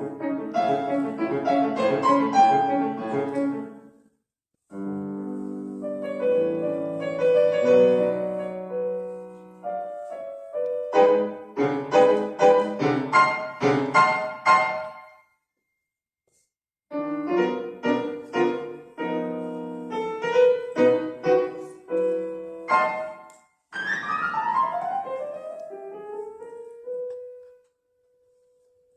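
Solo piano playing a classical piece in separate phrases with short silences between them, some passages of quick repeated chords. Near the end comes a fast descending run that settles onto a single held note.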